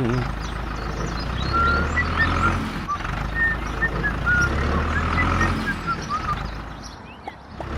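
A truck engine running with a steady low hum. Short high chirps of varying pitch come and go over it, and the whole sound dips and fades near the end.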